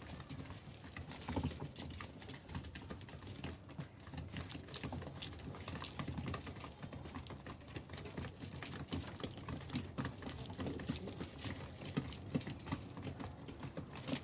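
Pigeons pecking at chopped vegetables, a dense irregular pattering of small taps and clicks.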